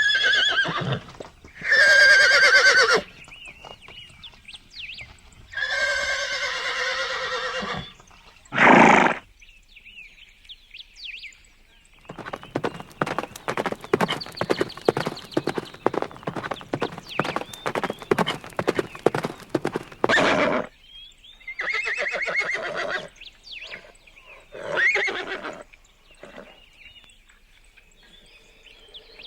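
Horses neighing and whinnying, several loud calls of one to two seconds each, with a short loud burst about nine seconds in. In the middle comes a long run of rapid hoofbeats, lasting about eight seconds.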